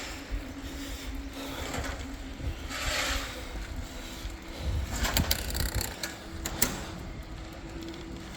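Bicycle freewheel ticking as the rider coasts, over a low wind rumble on the microphone, with a few sharp clicks between about five and six and a half seconds in.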